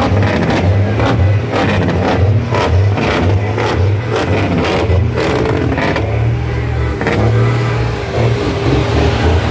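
Truck engine running and revving. Sharp regular knocks come about twice a second through the first half, then the sound smooths out after about six seconds.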